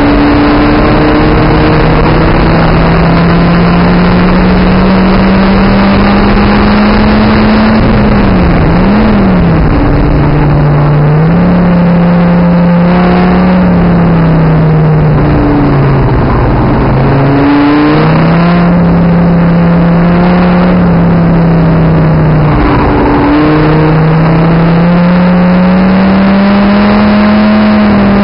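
Dodge Viper ACR's V10 engine at racing speed, heard on board: the engine note climbs slowly through long full-throttle pulls, drops and recovers several times as the car brakes and shifts down for corners, and climbs again near the end. Loud wind and road noise run underneath.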